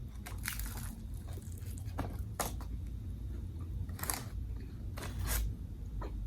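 A person chewing crunchy food close to the microphone, with several sharp crunches spread irregularly through the chewing.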